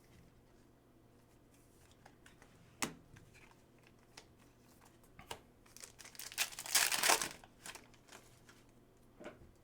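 Foil trading-card pack wrapper being crinkled and torn open, with a sharp click about three seconds in and a louder stretch of crinkling a little before seven seconds.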